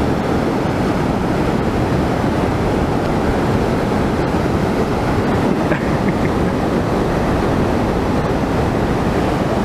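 Waterfall plunging into a pool close by, a loud, steady rush of falling water.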